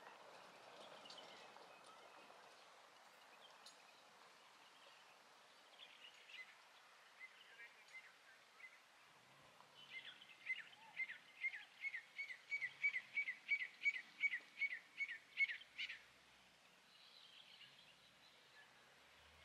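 A bird singing: scattered soft notes, then a fast run of short, falling, evenly repeated notes, about three a second, that grows louder for some six seconds and stops suddenly.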